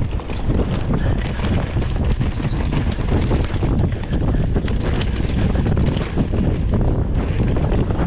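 Wind noise on the microphone over a mountain bike riding downhill over roots and rocks, with steady close rattling and many short knocks from the bike.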